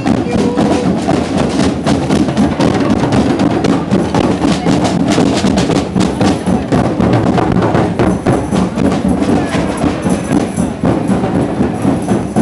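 Loud band music from a passing procession, with dense, fast drumming and percussion strokes throughout.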